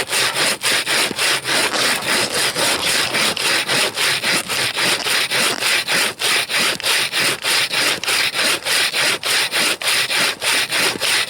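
Hand bow saw cutting through a frozen fir log in a steady rhythm of rasping push and pull strokes, about three a second.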